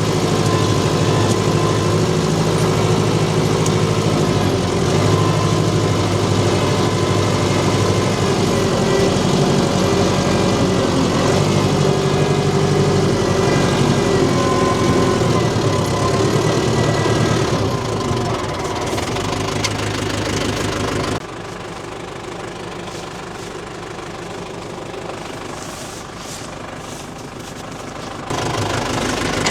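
Tractor engine running steadily. It drops suddenly to a lower, quieter sound about two-thirds of the way through and jumps back up near the end.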